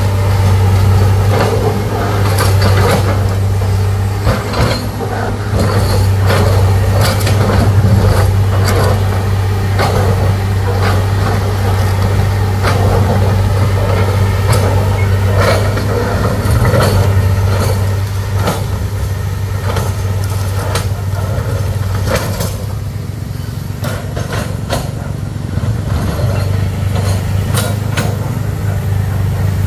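Heavy machinery engine running steadily under load, with scattered knocks and clanks throughout; it eases slightly in the second half.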